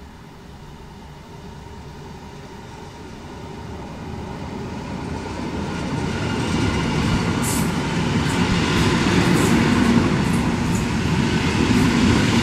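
EN57AL electric multiple unit arriving at a station platform: the rumble of its wheels and motors grows louder from about four seconds in as it draws close and runs past, with several short high-pitched squeaks over it in the second half.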